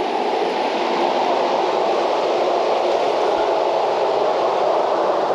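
A steady, even rushing noise with no separate knocks or tones in it.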